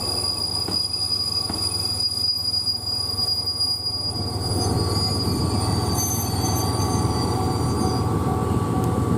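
Train wheels squealing on the rails in several high steady tones over the low rumble of a train in motion. The rumble grows louder about halfway through, and the squeal fades out about eight seconds in.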